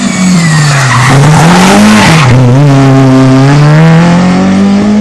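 Rally car engine working through a hairpin: the revs drop, rise sharply to about two seconds in, dip, then climb steadily under acceleration. A loud rush of tyre skid is heard between about one and two and a half seconds in.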